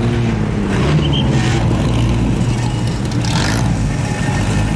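A car engine running at low revs as it drives past, its pitch rising and falling gently.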